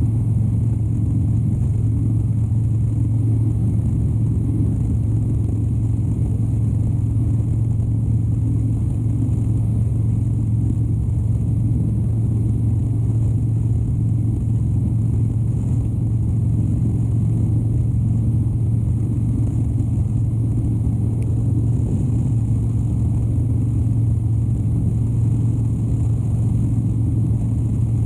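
Engine of a 2013 Harley-Davidson Dyna Wide Glide, its 103 cubic inch air-cooled V-twin, running at a steady cruising speed with a constant low drone.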